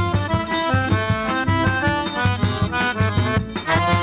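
Forró instrumental break: an accordion plays a quick run of melody notes over a steady bass-drum beat.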